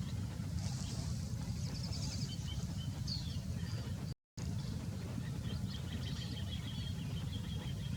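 Small birds chirping high and quick, with a quick run of chirps and later a longer trilling series, over a steady low rumble. The sound drops out briefly about four seconds in.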